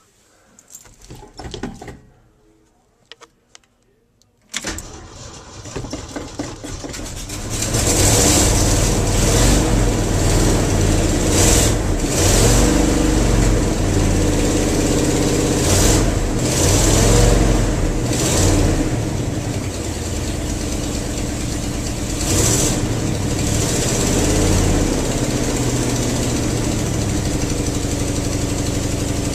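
1974 Ford F-250 engine cold-started: it is cranked about five seconds in and catches a few seconds later. It is revved up several times, then settles to a steady idle.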